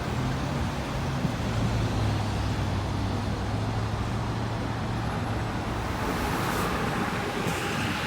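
Road traffic noise with a steady low engine hum that drops away about six seconds in.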